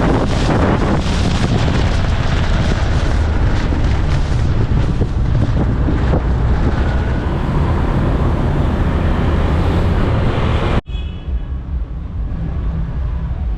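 Wind buffeting the microphone with road noise from a motorbike ride. It cuts off abruptly about eleven seconds in, and a quieter, duller stretch of the same kind of noise follows.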